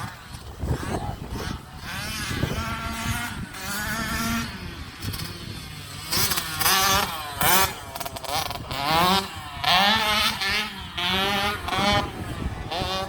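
Small dirt bike engine revving up and down as it is ridden, in repeated bursts of throttle, loudest in the second half.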